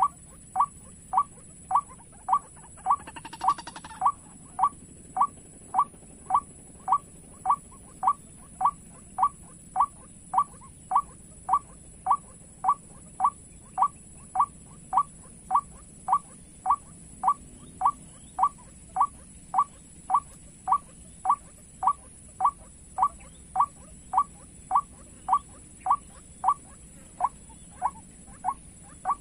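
White-breasted waterhen call, the same short note repeated with machine-like regularity about twice a second: a looped recording played as a lure for trapping waterhens. A steady high whine runs underneath, and a brief rustle comes about three seconds in.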